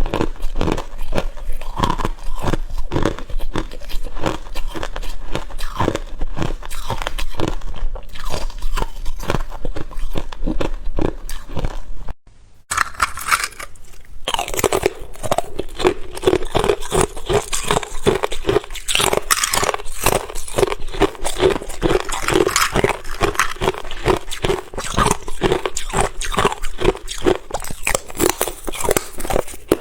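A person biting and chewing ice, with rapid, dense crunching close to the microphone. There is a brief break about twelve seconds in, after which the crunching carries on with a somewhat different tone.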